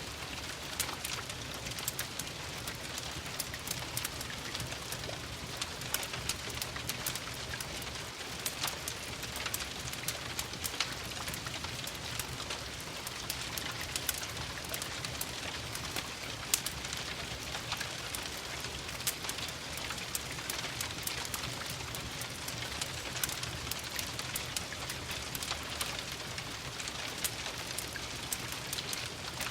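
Steady rain mixed with a crackling wood fire: a constant patter with many small sharp crackles and occasional louder pops, one standing out a little past halfway.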